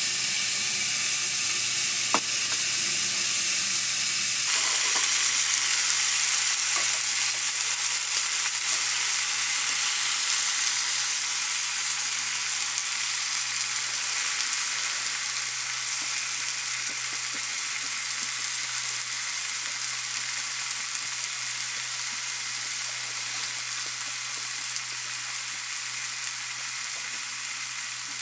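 Food sizzling in a hot frying pan. The sizzle thickens abruptly about four seconds in, then slowly eases off.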